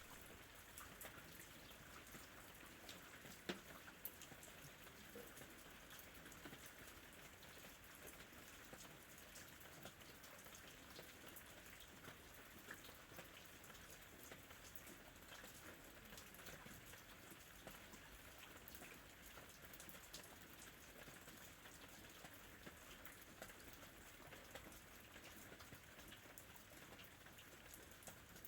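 Faint, steady rain with scattered drop ticks and patter, one a little louder about three and a half seconds in.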